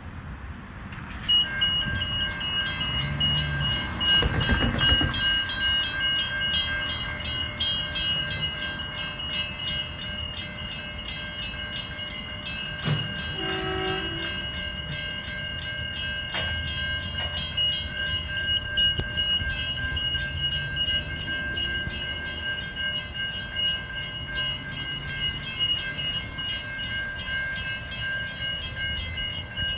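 Level crossing warning bells start about a second in and then ring rapidly and steadily. A train passes with a low rumble, and its horn gives one short toot about halfway through.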